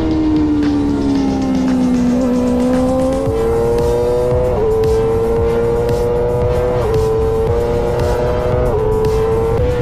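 Racing motorcycle engine running hard, its pitch falling over the first three seconds as the bike slows, then jumping up and holding high with a few small steps in pitch.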